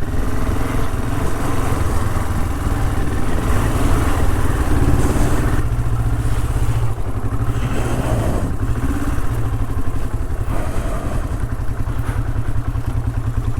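Honda CL450's parallel-twin engine running as the motorcycle is ridden, its note shifting a few times.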